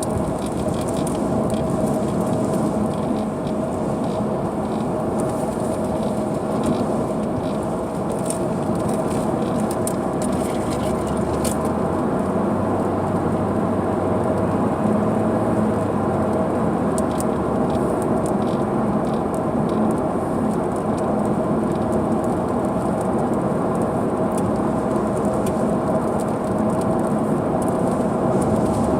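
Car driving in rain, heard from inside: a steady road and engine hum with a few constant tones, and scattered raindrops ticking on the glass and roof.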